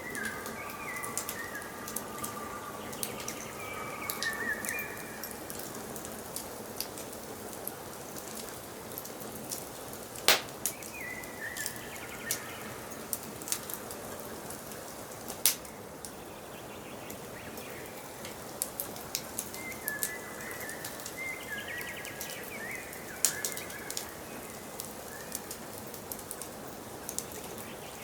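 Wood fire crackling steadily with many small sharp pops, two louder ones about ten and fifteen seconds in. Forest birds sing short phrases in the background at the start, again a third of the way through, and again past the middle.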